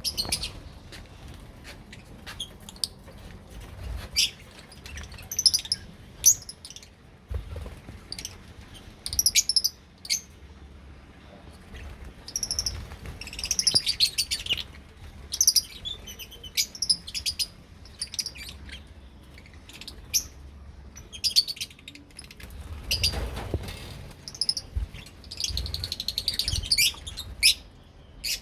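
Lovebirds chirping in short, shrill bursts that come and go every second or two.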